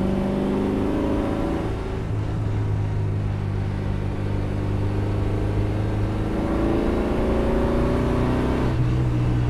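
1955 Austin-Healey 100M's four-cylinder engine under way in the open car, with road and wind noise. The note eases about two seconds in, climbs steadily in pitch over the last few seconds as the car accelerates, then drops sharply near the end.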